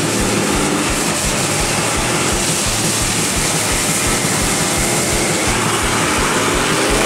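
Twin-turbocharged 454 cubic-inch LSX V8 in a sand rail running on the dyno, a loud steady noise with no large change in pitch.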